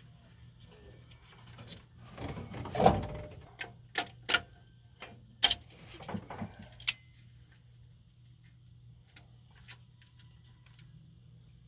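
Metal tools and parts being handled: a short scraping rustle about two seconds in, then a run of sharp, irregular clinks and clicks, thinning to a few faint ticks.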